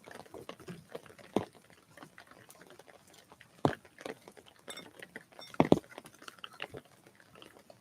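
Irregular sharp taps and knocks at a bird feeder, a second or two apart, loudest a little past the middle. A short run of high bird notes comes just before the loudest knocks.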